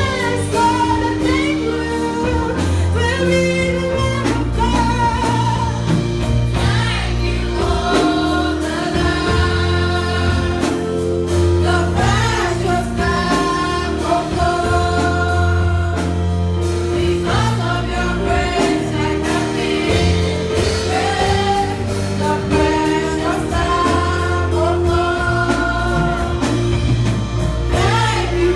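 Gospel-style singing by several voices over instrumental backing, with a steady bass line.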